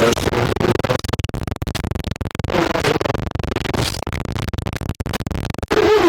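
Harsh, crackling TV-static-style noise, chopped up by rapid dropouts and glitches, with brief warbling tones breaking through about two and a half seconds in and again near the end.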